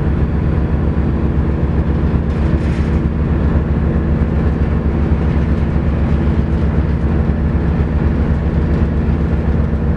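Ro-ro ferry's engines running, a loud, steady, low droning hum heard on board.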